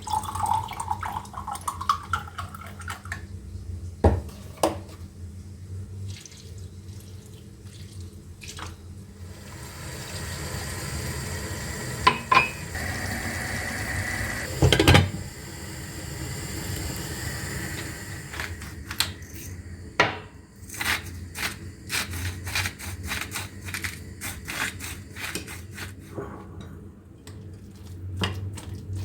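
Kitchen work sounds: cookware and utensils knocking and clinking, with a steady hiss through the middle and a quick run of clicks near the end.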